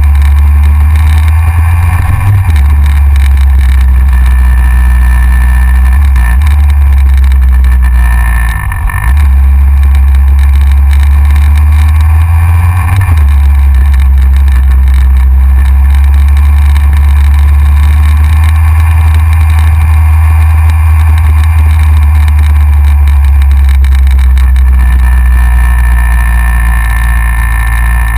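Heavy wind rush on a motorcycle-mounted action camera, with a Yamaha XJR's air-cooled inline-four running underneath at road speed. The engine note changes briefly a few times.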